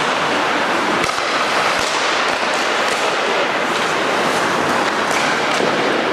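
Ice hockey game noise in a rink: a steady rushing din with a few sharp clacks scattered through it.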